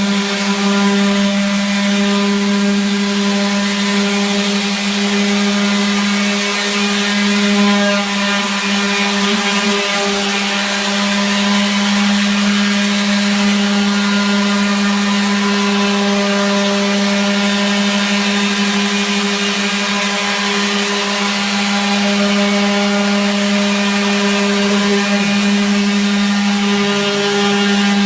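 Electric power sander running steadily on a wall: a constant motor hum with the hiss of the abrasive on the surface, the pitch barely changing.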